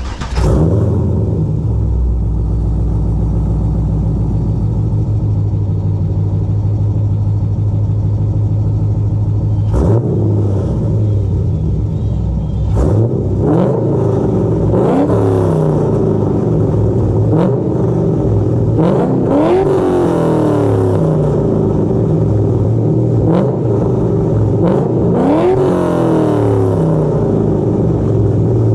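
LS V8 in a BMW E46 catches with a flare, then idles loudly through Vorshlag headers, an X-pipe, high-flow resonators and 3-inch piping. From about ten seconds in it is blipped through a series of short revs, each rising and falling back to idle.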